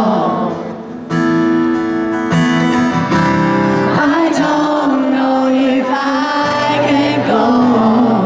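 Live pop-rock band music: after a brief dip in level, guitar chords come in about a second in, and singing returns over the band about halfway through.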